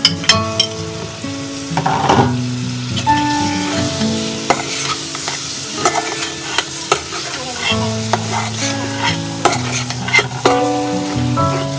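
Raw chicken pieces frying in hot oil and spice paste in an aluminium pot as they are stirred with a metal spoon: sizzling, with frequent clinks of the spoon against the pot. Instrumental background music runs underneath.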